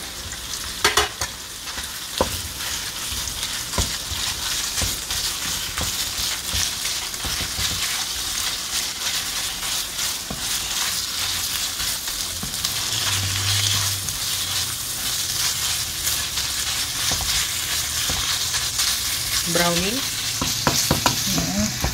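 Ground pork frying and sizzling in hot oil with chopped onion and garlic, stirred and broken up with a wooden spoon against a nonstick pan. A steady high sizzle runs throughout, with a few sharp knocks in the first few seconds as the meat goes in and the spoon strikes the pan.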